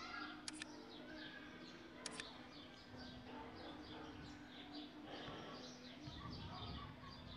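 Faint background chirping of birds, many short rapid chirps, over a steady low hum, with two sharp clicks about half a second and two seconds in.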